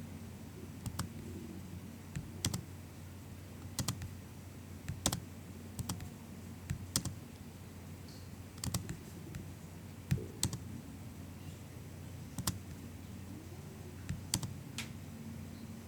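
MacBook keyboard keys tapped sparsely and unevenly, single or paired soft keystrokes roughly once a second, over a low steady hum.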